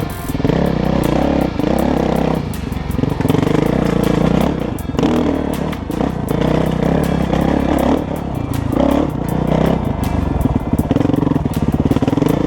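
Kawasaki KX450 dirt bike's single-cylinder four-stroke engine being ridden on a trail, its pitch rising and falling over and over as the throttle opens and closes.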